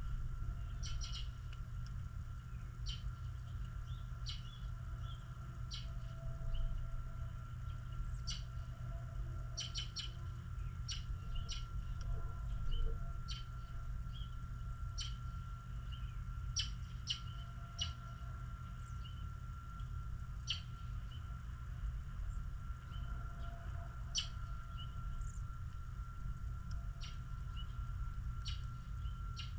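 Small birds chirping, many short separate chirps scattered irregularly, over a steady low rumble and a faint steady whine.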